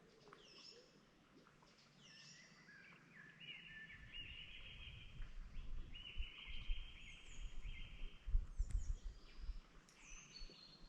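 Wild birds singing and calling: short sliding chirps throughout, with two longer trilled phrases in the middle. Wind buffets the microphone as a low uneven rumble from about four seconds in.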